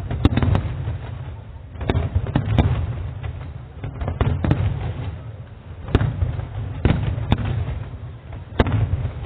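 Fireworks display: aerial shells bursting in sharp bangs, about one a second, over a continuous low rumble of further bursts.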